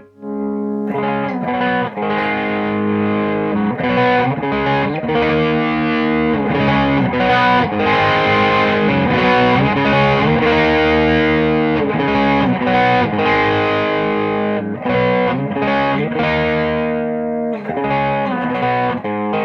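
Electric guitar played through an Audiostorm Quad Screamer overdrive pedal in silicon clipping mode, a classic tube-screamer drive, ringing out sustained distorted chords and single notes. The guitar's volume knob is rolled back and forward, cleaning up and dirtying the drive.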